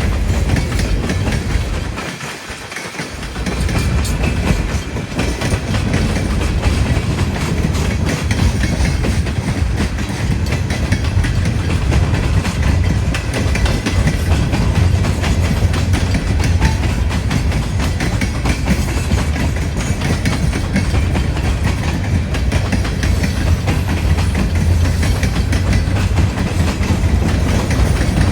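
Freight train cars rolling past, their wheels clacking over the rails in a steady stream of clicks, with wind buffeting the microphone. The low rumble drops out briefly about two seconds in.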